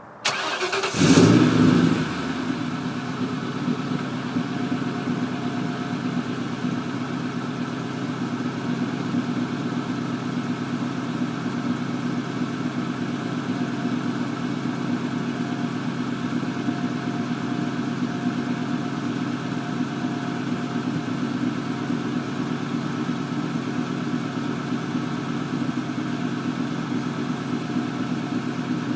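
Stock exhaust of a 2002 Ford Mustang GT's 4.6-litre V8 starting up in cold weather: the engine catches right away, flares loudly for about a second, then settles into a steady idle.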